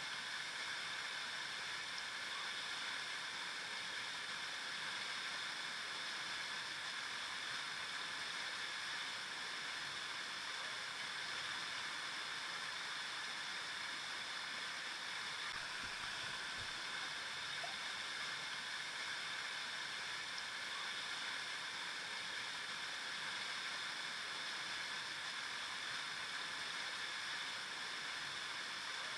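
River water flowing and rushing over rocks, a steady even hiss.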